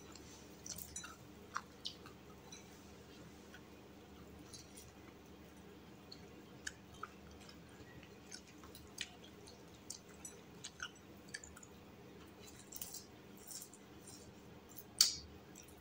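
Faint chewing of crispy fried chicken wings: scattered small crunches and mouth clicks at irregular intervals, one a little louder near the end.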